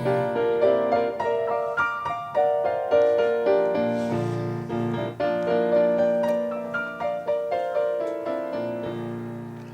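Piano playing a lively tune in quick single notes and chords, tapering off near the end.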